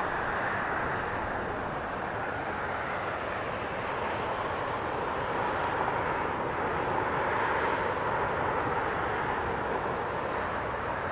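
Boeing 777 airliner's jet engines heard as it comes in to land, a steady rushing noise that swells slightly a little past the middle.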